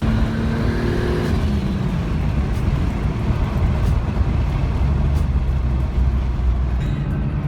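Car driving under way: engine running with road and wind noise. The engine note shifts in pitch during the first second or so, then settles into a steady drone.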